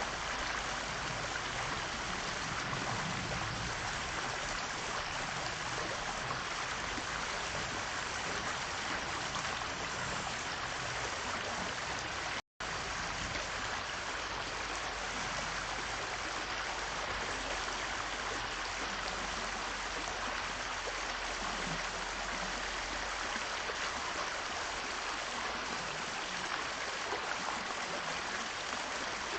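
Steady, even rushing noise like running water, broken by a sudden dropout of a fraction of a second about twelve seconds in.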